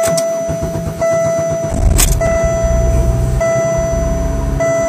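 Cold start of a 1998 Oldsmobile LSS's supercharged 3800 Series II V6, heard from inside the cabin: the engine cranks and catches about two seconds in, then runs. A steady electronic chime tone, broken about once a second, sounds throughout.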